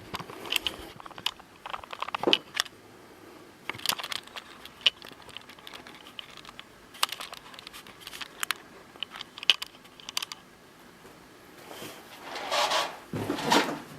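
Handling noise of a camera being set into the back of a chair: scattered light clicks and knocks, with two louder rustling swishes near the end.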